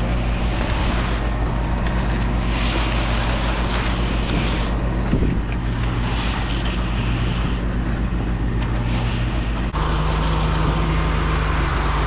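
Heavy truck engine running steadily, with a rush of noise swelling and fading every second or two; the engine note shifts slightly about ten seconds in.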